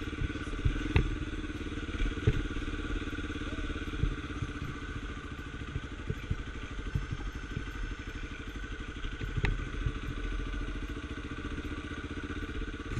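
Scrambler-converted Honda Tornado's single-cylinder four-stroke engine running at a steady speed under way, with a few short knocks scattered through it.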